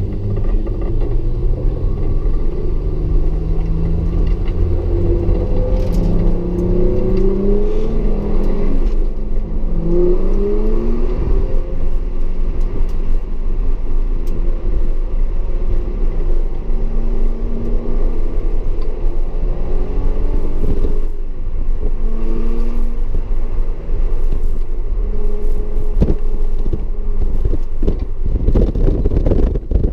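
Audi S4's engine accelerating and shifting on track, its pitch climbing and then dropping again several times over a constant low rumble.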